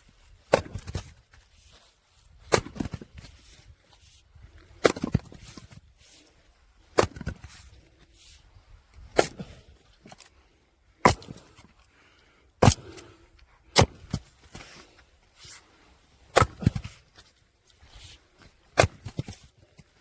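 Firewood being split: about ten sharp cracks of logs struck and splitting, roughly every two seconds.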